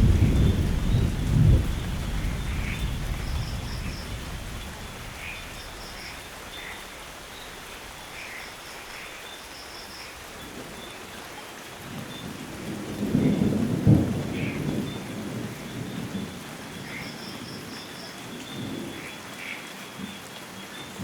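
Thunderstorm: a rumble of thunder dies away over the first few seconds over steady rain. A second roll of thunder builds about twelve seconds in, peaks a couple of seconds later, then fades back to the rain.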